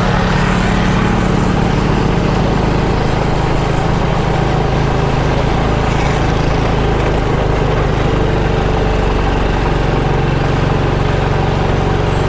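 Motorcycle engine running steadily under way, with a broad rushing noise over it.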